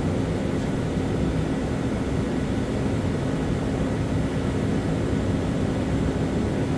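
A steady, unchanging low mechanical drone with a faint constant hum, like a running fan or motor.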